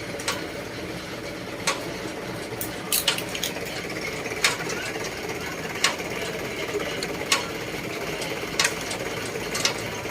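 An engine, likely the crane truck's, running steadily, with sharp clicks or light knocks about every second and a half.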